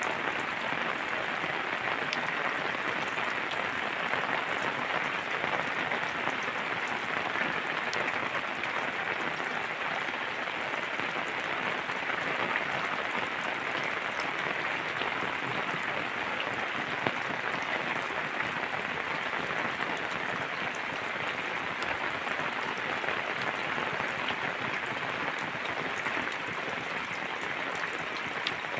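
Heavy rain falling steadily, a dense, even patter with a few scattered sharper drop hits.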